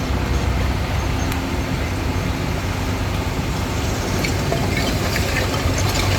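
Diesel engine of a Hitachi DX45M bulldozer running steadily under work, with a held drone and a higher steady tone. About two-thirds of the way through, scattered clicks and crackles join it.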